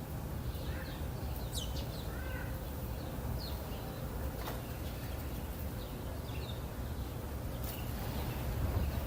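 Outdoor birdsong ambience: several birds giving short, scattered chirps and brief whistled notes over a steady low rumble of wind or distant background noise.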